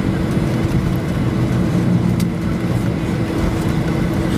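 Cabin noise of a Boeing 737-800 taxiing: a steady low rumble from its CFM56-7B engines at idle and the wheels rolling, with a steady hum.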